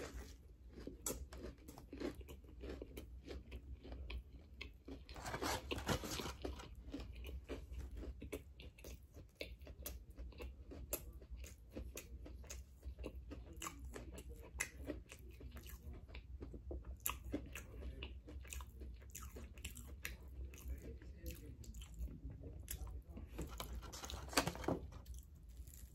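A person eating a crispy fried chicken sandwich up close: a bite through the bun and breaded chicken, then steady chewing with many small crunches and mouth clicks. There are louder crunchy moments about six seconds in and near the end.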